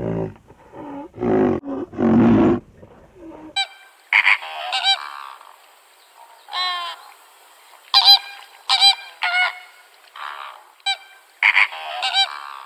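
A lion's deep roaring grunts in short bursts for the first three seconds or so. Then an abrupt switch to many repeated high-pitched honking bird calls, often overlapping, for the rest.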